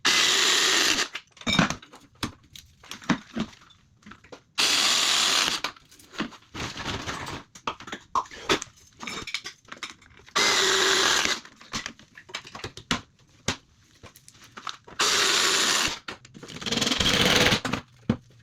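Power drill running in five short bursts of about a second each, driving screws as pipe clips are fixed, with small clicks and knocks between the bursts.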